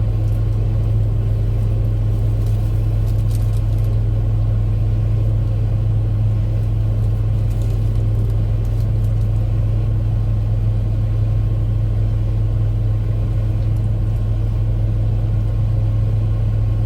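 Steady low rumble of an idling vehicle engine, even and unchanging, with a few faint clicks or rustles over it.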